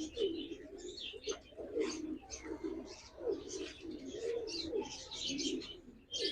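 Domestic pigeons cooing over one another in a loft, a steady run of low warbling coos with many short high chirps mixed in.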